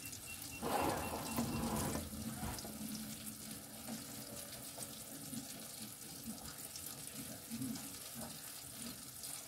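Steady sizzle of mushrooms frying in butter in a frying pan, a fine hiss with small crackles. About a second in, a louder noisy stretch lasting about a second and a half.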